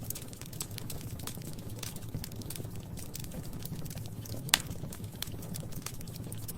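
Wood fire crackling in a fireplace: scattered small pops and snaps over a low steady rumble, with one sharp, louder pop about four and a half seconds in.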